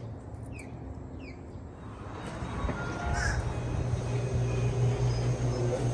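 A bird gives two short falling calls, then a low steady hum builds up and grows louder from about two seconds in.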